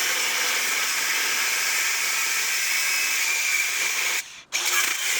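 Angle grinder cutting through steel: a loud, steady, harsh hiss of the disc in the metal, breaking off briefly about four seconds in and then resuming.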